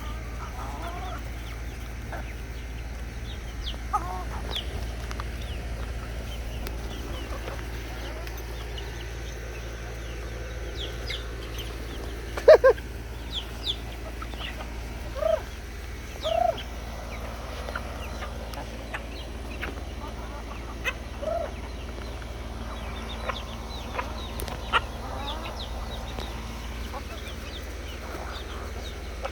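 Backyard chickens clucking, with short calls scattered throughout; the loudest comes about twelve seconds in. A steady low hum runs underneath.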